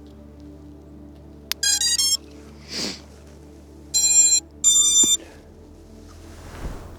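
Electronic beep tones from the FPV quad's gear as it is readied for flight. A click comes first, then a quick run of stepped high tones, and two longer high beeps a few seconds later, all over background music.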